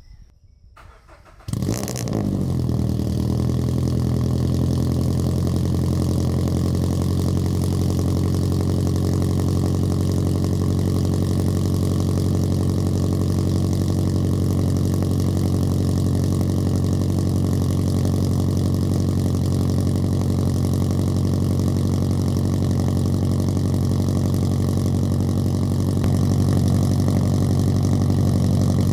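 2022 Subaru BRZ's flat-four engine cold-started about a second and a half in, catching at once and then idling steadily through a loud catless exhaust: Tomei unequal-length headers, Berk catless front pipe and GReddy RS exhaust. The idle grows a little louder near the end.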